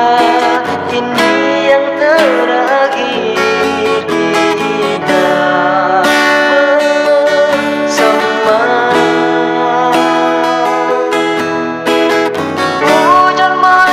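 Instrumental interlude of a pop ballad on an arranger keyboard, with a plucked acoustic-guitar sound carrying the melody over the backing.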